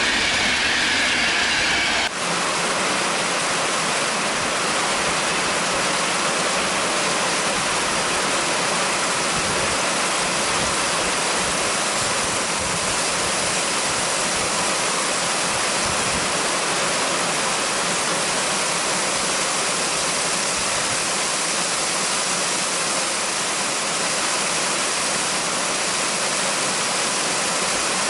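Heavy rain pouring down in a steady, even hiss, beginning abruptly about two seconds in.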